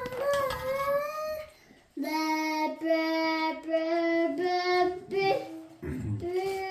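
A child singing a tune, with a short break about two seconds in, then a run of long held notes that step up and down in pitch.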